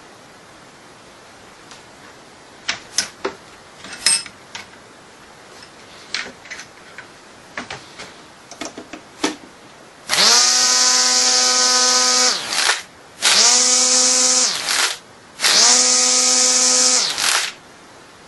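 An electric vibrating sander, rigged as a mini mower, is switched on three times in short runs of about two seconds each. Each run spins up quickly to a steady buzzing hum and winds down when it is switched off. Before the runs come scattered clicks and knocks.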